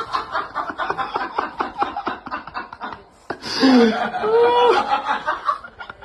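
Laughter: quick snickering chuckles for about three seconds, then after a short pause longer, drawn-out sounds that bend up and down in pitch.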